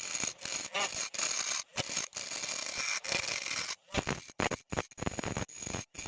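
Choppy scraping and rubbing noise, broken by frequent short gaps.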